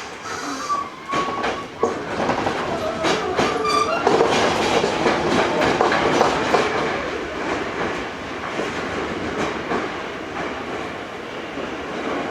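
Onboard running sound of a Hankyu 8000 series electric train with a Toshiba GTO-VVVF inverter: wheels clattering over rail joints under a loud rumble. Steady whine tones can be heard in the first few seconds.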